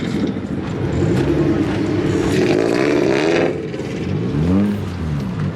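Car engines running, a steady drone, then about four seconds in one engine's pitch climbs and drops back.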